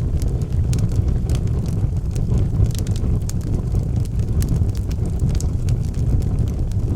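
Wood fire burning in a fireplace: logs crackling with frequent short, sharp pops over a steady low rumble.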